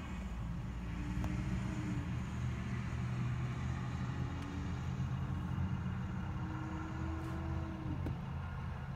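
Car engine idling with a steady low hum, heard from inside the car's cabin.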